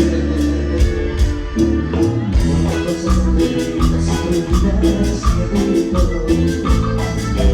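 A live Latin band playing an instrumental passage with a steady, driving percussion beat and bass line.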